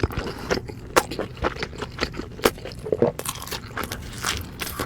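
Close-miked eating: irregular crisp crunches of biting and chewing into food.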